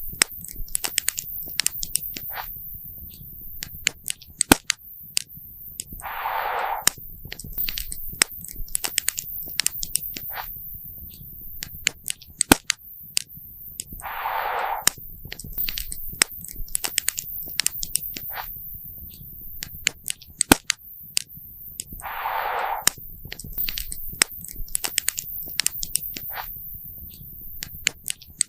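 Wood campfire crackling, with frequent irregular sharp pops and snaps over a low rumble. A brief rushing noise comes back about every eight seconds.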